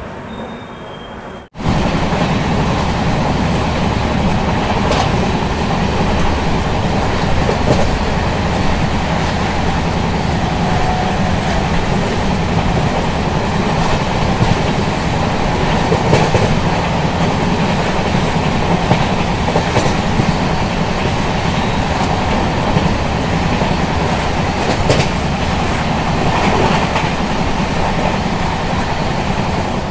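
Passenger train running at speed, heard from on board: a steady loud rush of wheels on rail, with a few faint clacks from the track. It cuts in about a second and a half in, after a short quieter moment.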